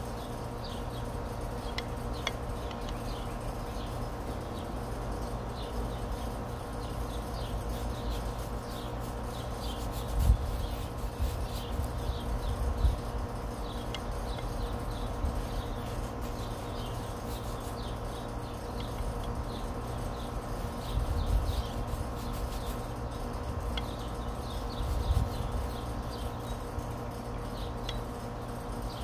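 Small birds chirping in the background, many short high calls over a steady low hum. Four low bumps, the first about ten seconds in, are the loudest moments.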